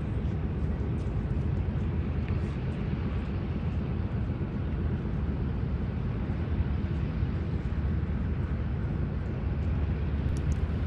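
Radial piston engine of a de Havilland floatplane running steadily, a deep, even rumble.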